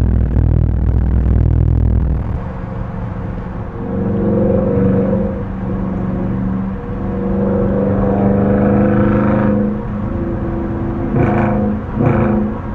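Dodge Charger R/T's V8 engine pulling hard with a deep rumble for about two seconds, then easing off and settling into a steady drone at cruising speed.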